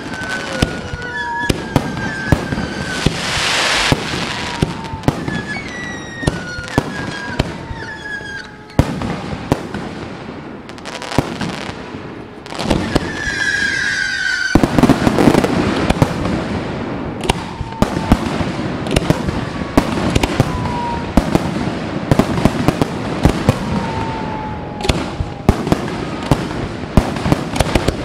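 Fireworks display: aerial shells going off with many sharp bangs and crackling, and several whistles that glide slightly downward in pitch. About halfway through the bangs grow denser and louder, like a barrage.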